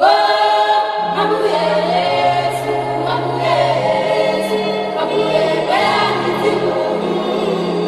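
Background music: choral singing, held chords of several voices over a steady low bass line.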